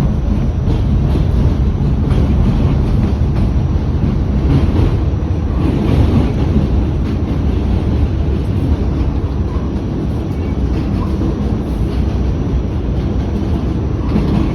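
New York City subway Q train running along the track: a steady, low rumble of wheels on rails with occasional faint clicks.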